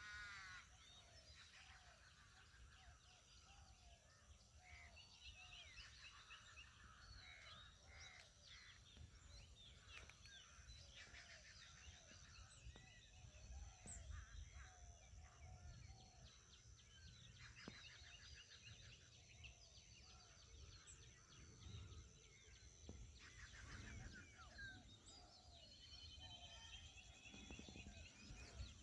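Faint rural chorus of several birds calling: a string of short falling notes repeating about twice a second, with higher chirps and trills over it and a steady high whine underneath.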